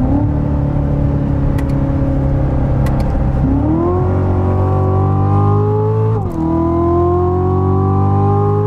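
2016 Chevrolet Corvette Z06's supercharged 6.2-litre V8 under hard acceleration, heard from inside the cabin. The revs rise sharply about three and a half seconds in and keep climbing, then drop with an upshift about six seconds in and climb again.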